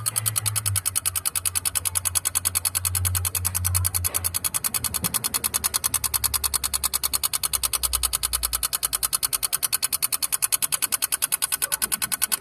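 Rapid, steady electrical clicking from a 1988 Chevy Caprice Classic, several clicks a second, which the owner traces to a sensor with a damaged plug: unplugging the sensor stops it. A low hum underneath drops in pitch and fades out about nine seconds in.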